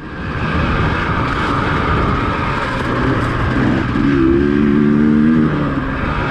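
Dirt bike engine running as the bike is ridden. Its note steadies into a clear, held tone for about a second and a half past the middle.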